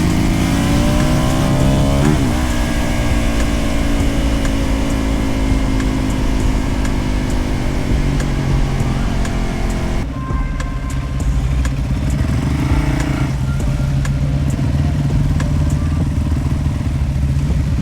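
Motorcycle engine running while riding, climbing in pitch for the first couple of seconds, then shifting and holding a steadier note. The engine note changes and drops about ten seconds in.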